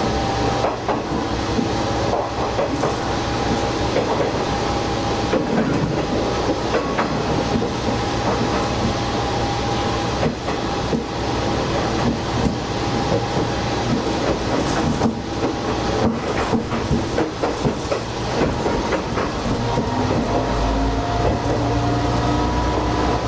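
Diesel railcar running along the track, heard from the cab: a steady engine and transmission hum with wheels clicking over rail joints. A busier stretch of clicking and clattering comes through the middle, and the engine note rises slightly near the end.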